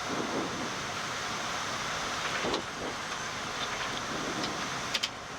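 Steady rush of airflow and engine noise on the flight deck of a Boeing 787-9 in the last seconds of its landing approach, slowly growing louder, with a few faint clicks, the sharpest about five seconds in.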